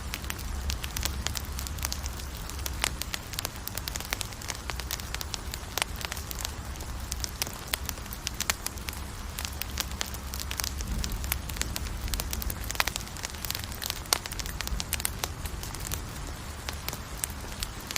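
Campfire burning, with frequent irregular crackles and pops from the wood over a steady low rumble of the flames.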